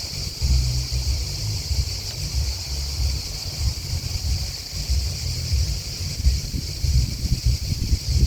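Steady, high-pitched chorus of chirping insects, grasshoppers and crickets, with irregular gusts of wind buffeting the microphone as a low rumble.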